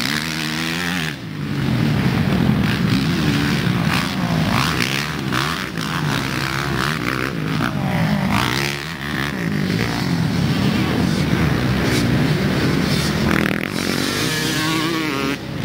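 A pack of motocross bikes racing, several engines revving hard at once. Their pitches rise and fall over and over as the riders work the throttle through the gears and over the jumps.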